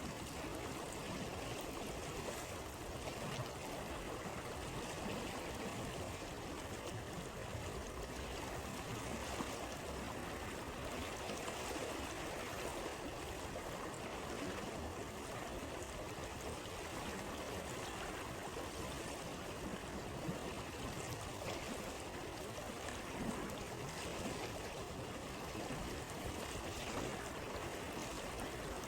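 Steady rush of a flowing riverside stream, with a few faint pops from a crackling campfire.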